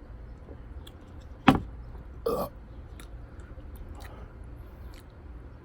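Two short throat noises from a person, a sharp loud one about a second and a half in and a softer one a moment later, over a low steady hum.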